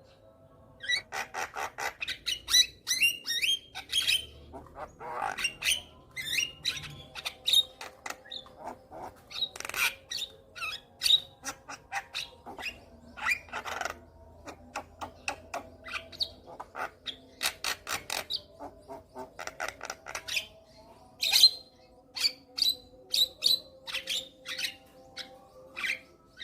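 Javan myna (jalak kebo) singing a long, varied song of rapid, short harsh notes and chirps, delivered in quick runs with brief pauses.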